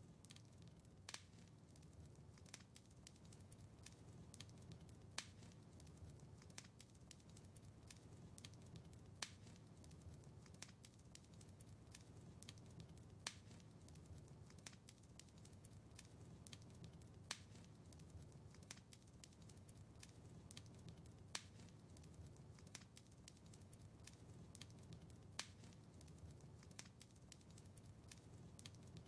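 Wood fire in a fireplace crackling: a faint, steady low rumble with many small pops and snaps, and a sharper pop about every four seconds.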